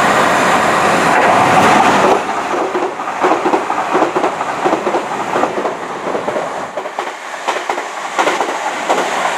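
Passenger train passing on the tracks below: a steady rushing noise for about two seconds, then irregular clattering and knocks as the wheels run over rail joints and points.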